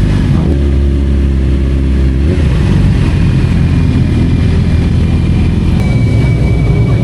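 Yamaha R6 motorcycle's inline-four engine running at a steady pitch, then revving up about two seconds in as the bike pulls away. After that, a loud rushing noise covers the engine.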